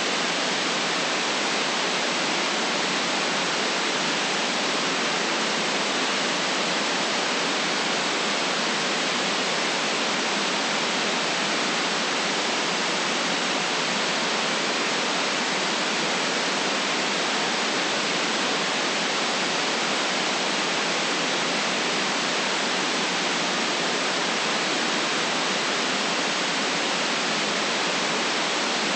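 Steady synthetic white noise: an even, unchanging hiss, band-limited to cut off the deep bass and the highest treble.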